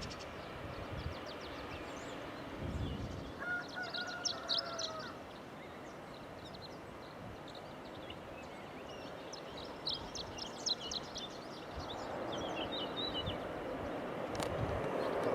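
Small birds chirping on and off over steady outdoor background noise, with an aircraft's engine noise swelling over the last few seconds as it approaches.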